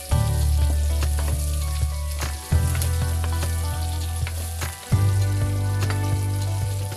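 Pork and onions sizzling in a wok while a spatula stirs them, scraping and tapping against the pan in short clicks. Background music with low held notes that change about every two and a half seconds runs underneath.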